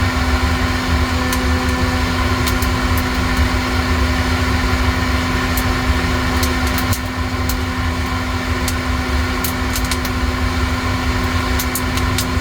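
A coffee-roasting appliance's motor running steadily with a hum, with scattered sharp clicks over it; the hum drops out about seven seconds in and the noise carries on a little quieter.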